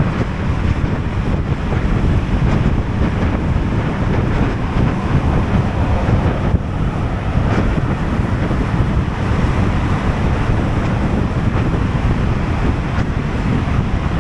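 Steady wind noise rushing over the microphone of an action camera on a moving scooter: a dense, even low rumble with no breaks.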